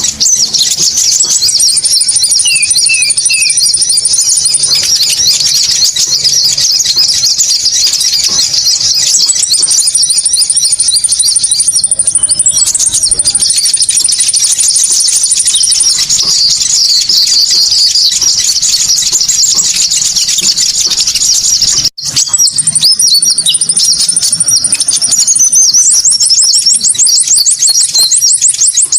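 Konin bird-lure call: a loud, dense stream of rapid high twittering and chirping birdsong, with thin high trills repeating over it, meant to draw konin birds in. It breaks off for an instant about 22 seconds in, then carries on.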